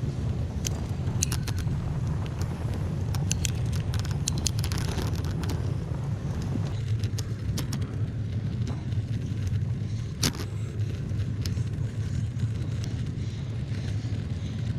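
Bicycle in motion: a steady low rumble of wind on the microphone and tyres on the trail, with scattered sharp clicks and ticks.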